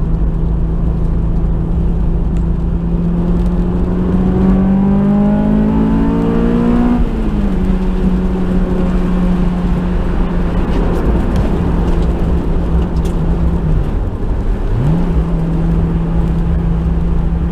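Honda S2000's AP2 four-cylinder engine heard from inside the cabin under steady low road noise. It cruises, pulls up in revs for about three seconds, drops back as the driver shifts or lifts, then holds steady. Near the end the revs dip briefly and come straight back up.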